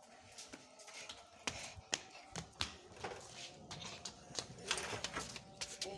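Rain dripping: irregular sharp taps of drops hitting a hard surface, over a faint hiss of falling rain.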